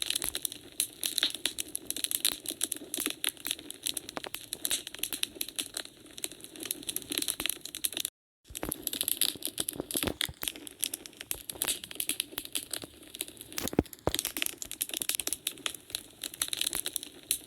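Wood fire crackling, with dense irregular pops and snaps over a low hiss of burning logs. The sound cuts out completely for about half a second around eight seconds in.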